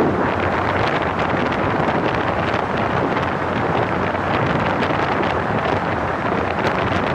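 Steady wind buffeting the microphone of a camera on a moving vehicle, over the rush of the car travelling along the highway.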